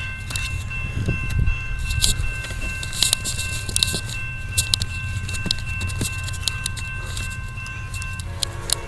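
Railroad crossing bell ringing steadily over a low rumble, with scattered clicks. About eight seconds in the bell stops and a lower, chord-like train horn starts sounding.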